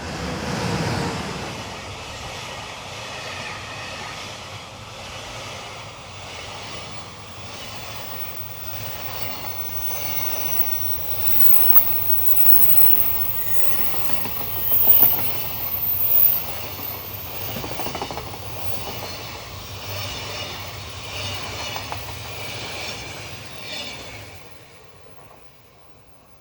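Freight train passing close by behind an electric locomotive: the locomotive rushes past about a second in, followed by a long run of wagons with wheels knocking over rail joints. The train clears and the sound drops away near the end.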